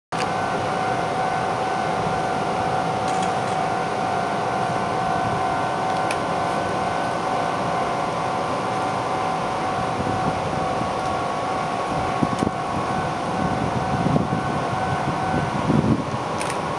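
Shizuoka Railway 1000-series electric train humming steadily while standing, with two steady electrical tones over a constant noise. About a second before the end the tones change and a low rumble rises.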